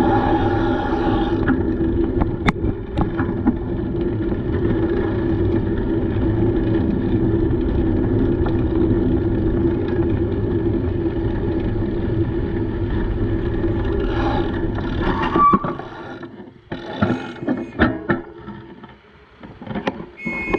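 Steady rumbling riding noise with a low hum, from a bicycle rolling along a paved path. It drops away about fifteen seconds in, leaving scattered clicks and knocks.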